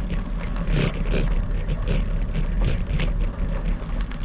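Bicycle tyres rolling over gravel, a steady rumble with irregular crunches and rattles, and wind buffeting the microphone.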